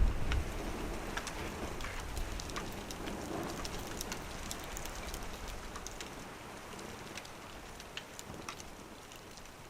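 Firewood burning in a small wood stove, crackling with many small sharp pops over a steady hiss. A low rumble sits under the first half-second.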